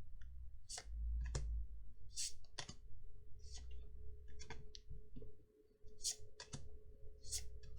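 Magic: The Gathering trading cards being handled and sorted: about a dozen short card clicks and brief swishes as cards are slid and flicked against one another, at an irregular pace.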